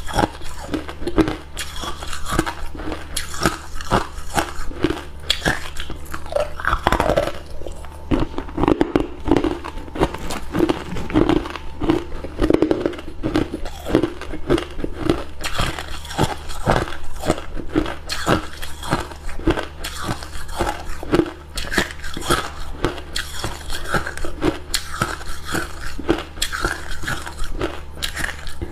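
Hard cube ice being bitten and chewed close to the microphone: a steady run of sharp crunches, a few a second, over a low steady hum.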